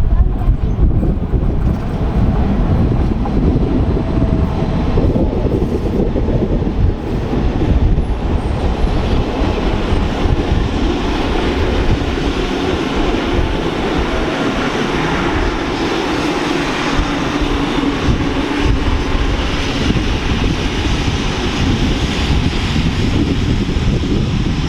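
Rhaetian Railway train on the Bernina line running close by, a steady loud rumble of wheels on rails with motor hum.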